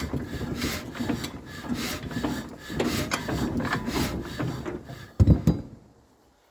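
Old 1931 Ruston engine being turned over by hand crank, a rasping, rubbing mechanical sound that swells about once a second with each turn, without the engine catching. About five seconds in there is one heavy low thud, and the cranking stops.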